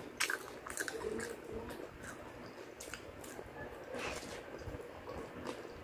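Close-miked chewing and biting of crispy fried chicken: soft wet mouth sounds with scattered crisp clicks and crackles, the sharpest about a second in and again around three and four seconds in.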